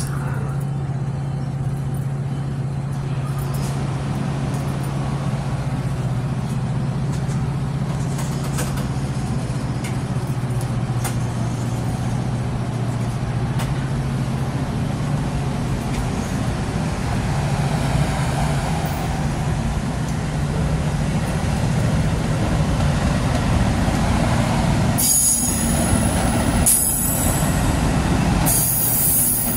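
Metra bilevel commuter train starting to move: a steady low hum that grows louder from about halfway through, then three short high-pitched wheel squeals near the end.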